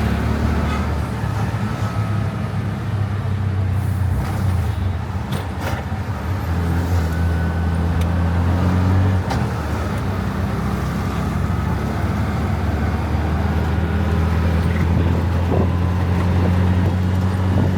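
Riding in an electric tricycle (e-bike tuk-tuk): a steady low motor hum that shifts in pitch a couple of times as it changes speed, over road and traffic noise.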